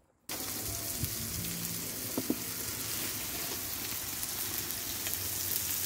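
Meat and enoki mushrooms frying on a hot rectangular griddle over a tabletop burner: a steady, loud sizzle that cuts in abruptly just after the start.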